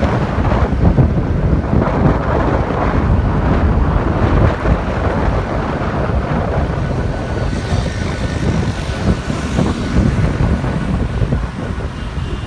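Wind buffeting the microphone on a moving motorcycle, over the steady noise of the bike and surrounding road traffic.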